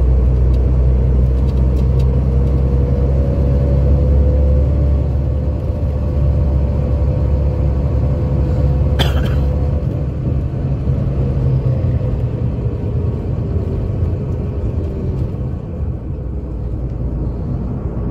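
1984 Scania K82SR coach running under way: a deep diesel drone with a whine above it that wavers in pitch. The drone eases off about five seconds in, and a single sharp click sounds about halfway through.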